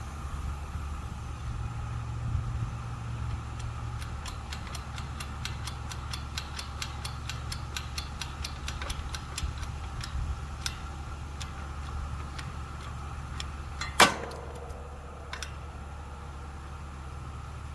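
A log being forced apart on a homemade hand-pumped hydraulic log splitter: a rapid run of small sharp ticks as the wood strains, about two to three a second, then one loud crack about fourteen seconds in as it splits. A steady low hum runs underneath.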